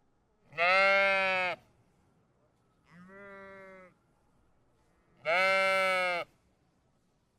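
Sheep bleating: three calls of about a second each, the middle one quieter than the other two.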